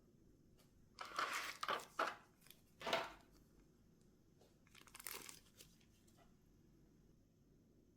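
Packaging crinkling as it is handled and opened, in three bouts: a longer one about a second in, a short sharp one near three seconds, and a softer one around five seconds.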